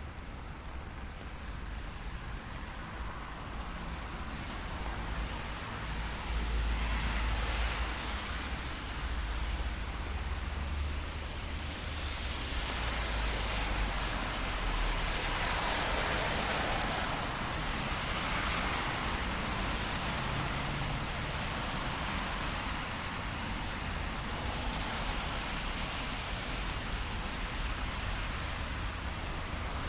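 Cars passing on a rain-wet city street, their tyre hiss swelling and fading several times over a low engine rumble, with steady light rain.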